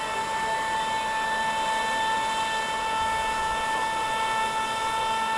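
Radio-controlled model airboat's electric motor and air propeller running on 14 volts, a steady high whine holding one pitch.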